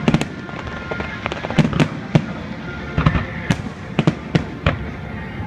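Aerial fireworks bursting: a string of sharp bangs at irregular intervals, about a dozen, some coming in quick pairs.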